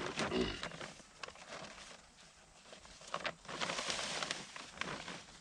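Irregular rustling and scraping with a few sharp cracks as a fishing net tangled with sticks is handled and pulled free. The rustling grows louder for a second or so near the end.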